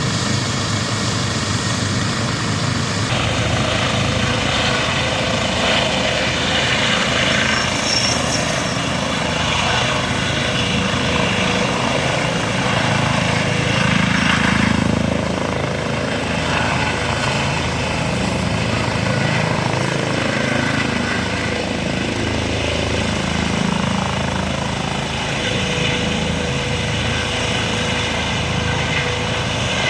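Helicopter running steadily, its rotor and engine giving a constant, loud noise with a low, even pulsing.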